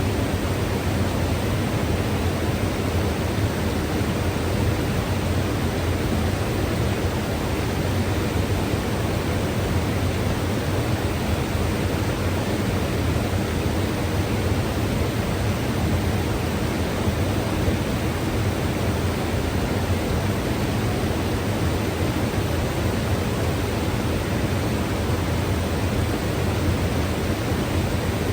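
Mountain river rushing over rocks: a steady, dense roar of flowing water that stays unchanged throughout.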